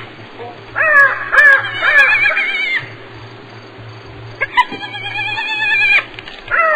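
Hyena giggling calls: long, high-pitched calls whose pitch wavers rapidly up and down. One comes about a second in, another from about four and a half seconds, and a third begins near the end.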